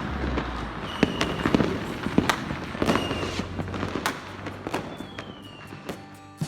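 Many fireworks and firecrackers going off at once: a dense string of sharp bangs and crackling pops, with a few short whistles and a falling whistle about five seconds in. The bangs thin out toward the end.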